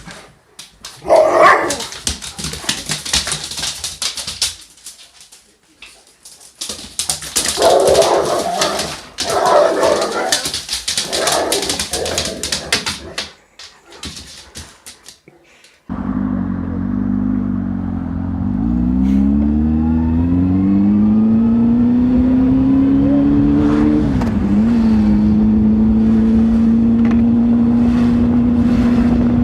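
A dog barking in loud, broken bursts with short pauses. After a sudden cut, a vehicle engine takes over, rising in pitch and then settling into a steady drone.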